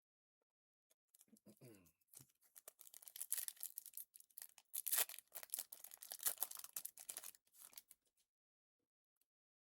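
A foil trading-card pack wrapper being torn open and crinkled: a crackling rustle lasting about seven seconds, busiest in the middle.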